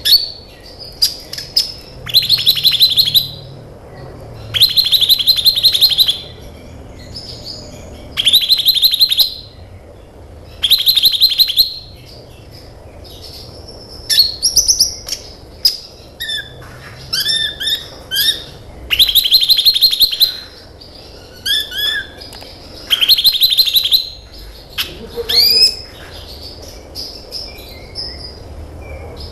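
Sunbird of the kind Indonesian bird keepers call kolibri ninja, singing: loud, fast trills about a second long repeated every few seconds, with thin whistled and rising notes and short chips between them.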